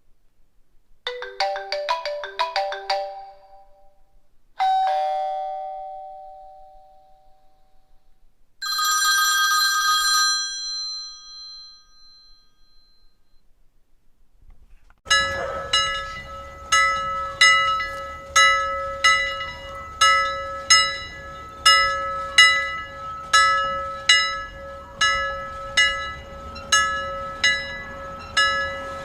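A run of separate chime and bell effects. First a quick doorbell-like chime of several notes, then a single chime note that fades slowly, then a short bright bell ring. From about halfway in, a bell rings over and over, struck evenly about twice a second.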